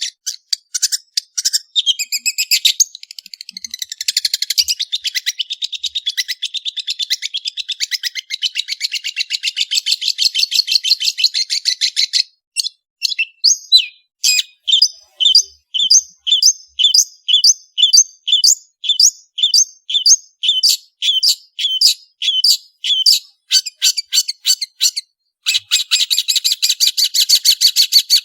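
Long-tailed shrike (cendet) singing a fast, scratchy chatter of rapid notes, then about ten seconds of short repeated notes at about two a second, and near the end a burst of fast chatter again.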